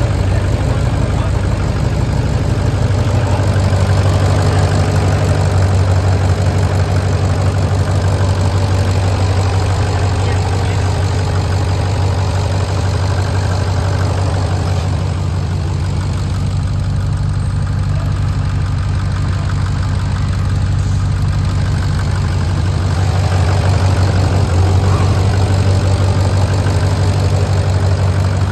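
The engine of a 2005 Ford F-250 pickup with 178,000 miles, idling steadily.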